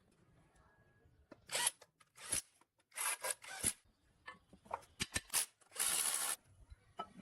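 A series of short scraping or rubbing strokes at an irregular pace, the longest lasting about half a second around six seconds in.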